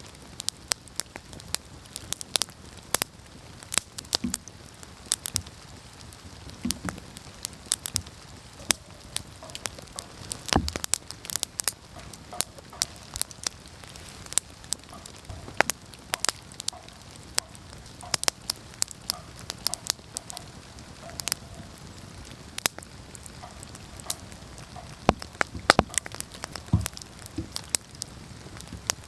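Wood campfire crackling: irregular sharp pops and snaps, some much louder than others, over a low steady hiss of the burning fire.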